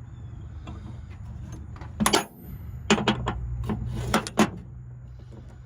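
Metal parts of a Stripmeister wire stripper clinking and knocking as they are handled and fitted back together, with about half a dozen sharp clinks over a steady low hum.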